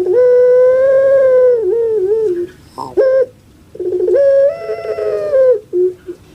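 Puter pelung dove (Barbary dove, Streptopelia risoria) cooing: two long drawn-out coos, each held on one pitch for about two seconds and breaking into a wavering warble at the end, with a short note between them.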